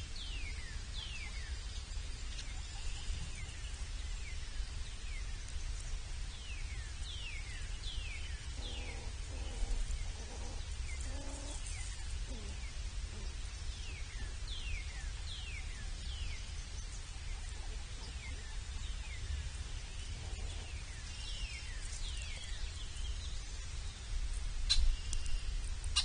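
Birds calling outdoors: short, high, downslurred peeping notes repeated in pairs and threes over a steady low rumble. A sharp click comes near the end.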